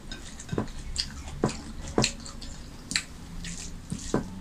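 Close eating sounds of rice and chicken curry eaten by hand: a string of sharp, wet smacks and clicks of chewing, about six loud ones, with fainter ticks in between.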